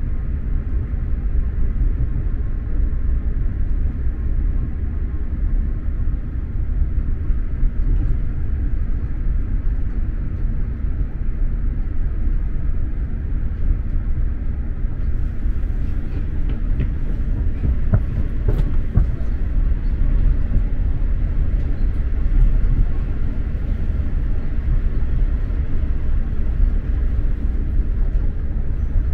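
Running noise of an X2000 high-speed train heard from inside the passenger car: a steady low rumble, with a few faint clicks a little past the middle.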